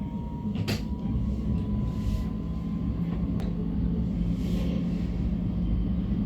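Train moving slowly: a steady low rumble and hum, with a thin whine that rises slightly and fades about halfway through. Two sharp clicks come, one just under a second in and one about three and a half seconds in.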